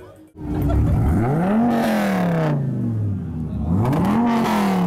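Devon GTX's modified Viper V10 engine revved twice: each time the pitch climbs quickly, then falls back slowly to idle over about a second and a half.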